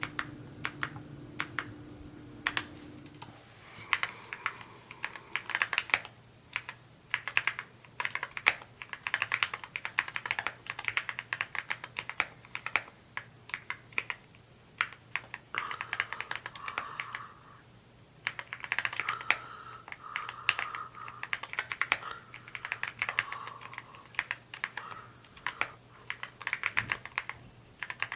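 Evo80 mechanical keyboard being typed on at a quick pace: rapid key clacks in runs, broken by brief pauses.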